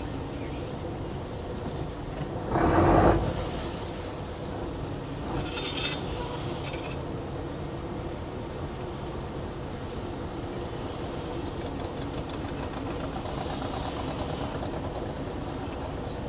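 Fishing boat's engine running steadily, with a brief loud burst of noise about three seconds in and a short hiss a few seconds later.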